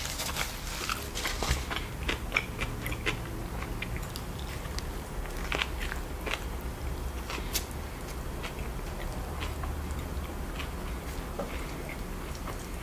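Close-miked biting and chewing of a fried chicken sandwich, with irregular small crackles and clicks.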